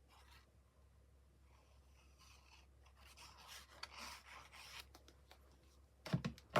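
Paper and card rubbing and scraping as a stamped card panel is handled and smoothed down onto a card base, with a few light clicks and a louder knock near the end.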